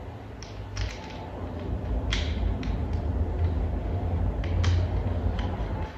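Scattered light clicks and creaks of small plastic toy parts being handled and fitted together, about eight in all, over a low steady rumble.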